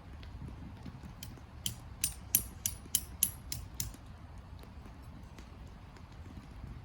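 A quick run of about eight sharp, high mechanical clicks, about three a second, in the middle, over a low steady rumble.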